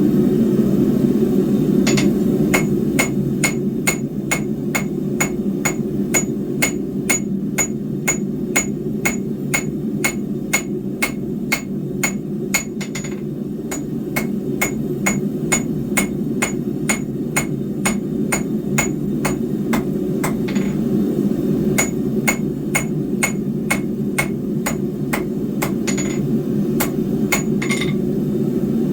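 Hammer blows on steel at the anvil, about two to three strikes a second, each with a clear metallic ring, in two long runs with a pause of several seconds between them. A steady low rushing noise runs underneath.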